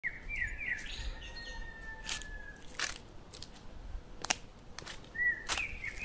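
Small songbirds chirping in short warbling phrases at the start and again near the end, with one long thin whistled note about a second in. Several sharp clicks sound a second or so apart in between.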